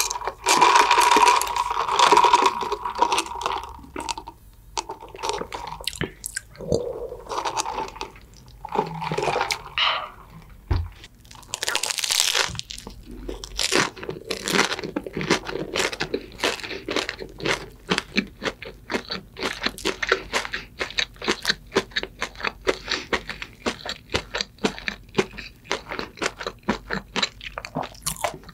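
Drink being sucked up through a straw for the first few seconds. Then, from about twelve seconds in, close-miked crunching and chewing of a crispy fried croquette, many quick crunches in a row.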